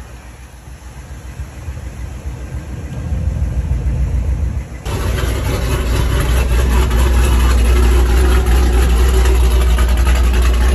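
A car or truck engine running with a steady low exhaust rumble. About five seconds in it jumps abruptly to a louder, steadier rumble.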